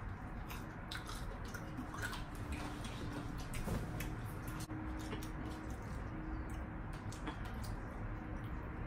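Close-up eating sounds of fried chicken being chewed: wet mouth smacks and many small sharp clicks, scattered irregularly.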